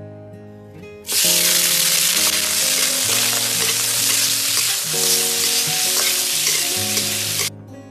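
Food frying in hot oil in a pan: a loud sizzle that starts suddenly about a second in and cuts off abruptly near the end.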